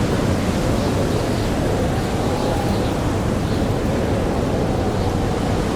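Steady rushing blizzard wind with a faint wavering howl that slowly rises and falls in pitch.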